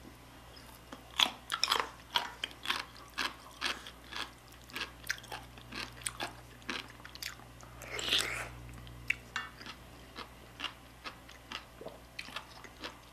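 Close-miked mouth sounds of eating yukgaejang soup with rice: a run of short, wet chewing and biting clicks, with a longer, noisier sound about eight seconds in.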